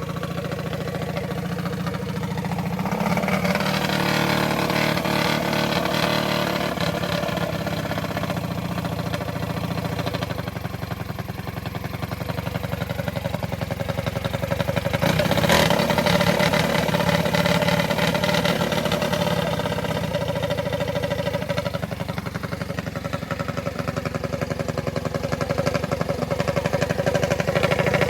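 Minibike's small-block engine running, its revs rising and falling several times between idle and higher speed.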